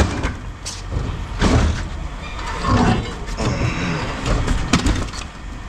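Engine running steadily under irregular knocks and clunks of heavy objects being handled.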